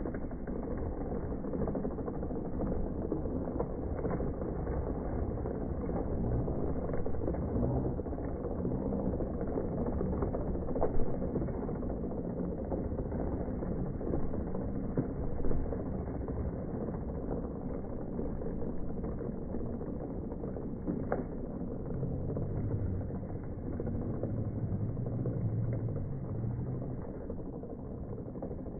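Slowed-down audio of a toy Tonka truck being towed by a bicycle: a deep, continuous rumble and scrape of its wheels on pavement, with a few knocks. Drawn-out low voice sounds come in now and then.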